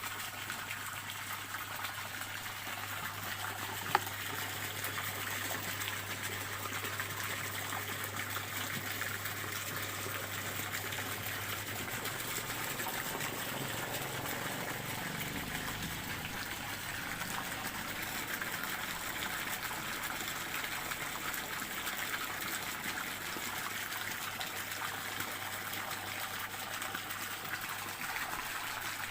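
Running water of a stream flowing and trickling steadily. A single sharp click about four seconds in.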